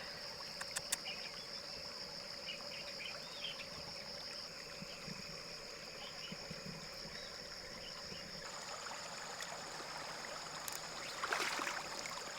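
Flowing river water with a steady high-pitched insect drone over it. A few sharp clicks, and a stretch of louder noise near the end.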